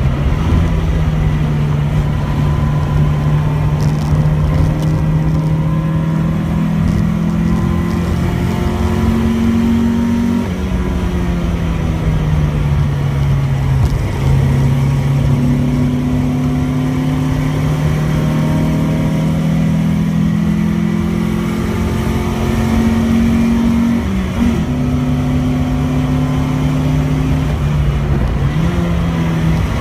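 Opel Manta 2.0 GSi's engine under hard load on track, heard from inside the cabin over tyre and road noise. Its note falls as the car slows for a corner about a third of the way in, then climbs again under acceleration, with short dips in the note near the middle and about four-fifths through.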